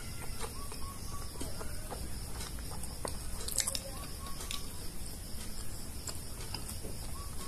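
A man chewing a gulab jamun, a soft syrup-soaked sweet: faint wet mouth sounds with scattered small clicks and smacks.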